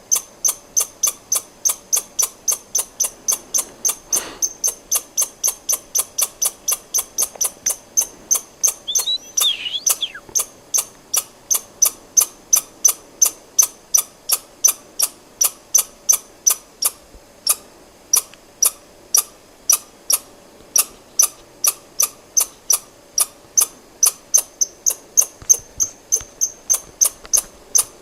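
A squirrel giving a repeated alarm call: short, sharp, high-pitched chirps, about two and a half to three a second, on and on. About nine seconds in, a brief run of falling chirps of another kind sounds behind it.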